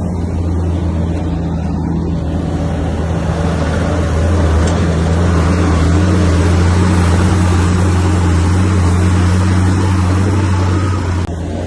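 Komatsu bulldozer's diesel engine running with a steady low hum, working harder from about three seconds in as the noise of the machine grows louder, then easing; a sudden break about eleven seconds in.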